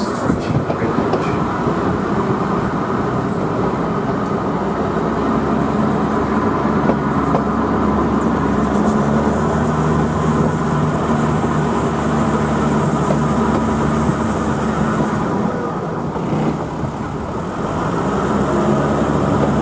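Queensland Rail 2000 class rail motor running steadily as it climbs the range, its diesel engine drone mixed with wheel and track rumble. It eases briefly about sixteen seconds in.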